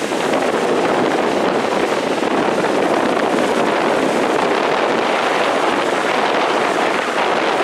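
Strong wind blowing over the microphone along with the steady noise of large lake waves breaking. The noise jumps up at the start and then holds loud and even.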